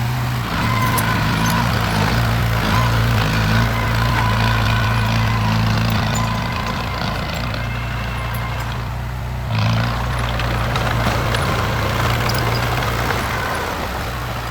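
Diesel engine of heavy construction machinery running steadily, with a higher whine above it. The engine note dips and then surges again a little before ten seconds in.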